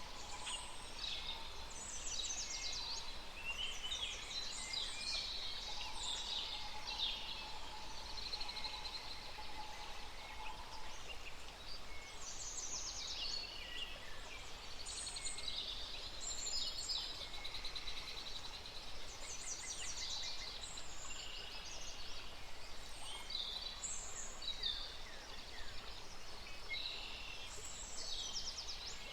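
A chorus of many birds chirping and trilling at once, overlapping high calls with fast rattling trills, going on without a break.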